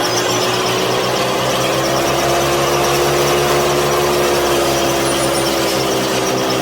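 A motor running steadily, a constant hum with a slight drift in pitch.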